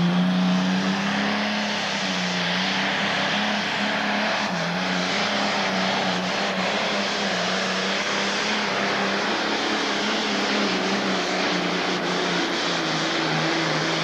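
Pro stock pulling tractor's diesel engine revving up and then running hard at steady high revs under load during a pull, with its pitch sagging slightly a couple of times.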